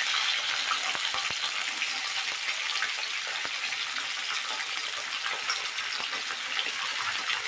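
Long brinjal (eggplant) pieces sizzling steadily in hot oil in a steel kadhai on high heat, with small crackles through the hiss as more pieces go in.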